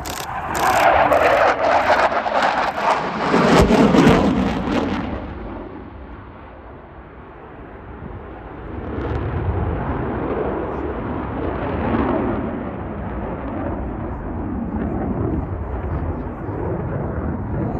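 Eurofighter Typhoon FGR4 jet with its twin EJ200 turbofans flying a display pass: loud, crackling jet noise for about the first five seconds, dropping away briefly, then rising again to a steady jet noise that swells and eases.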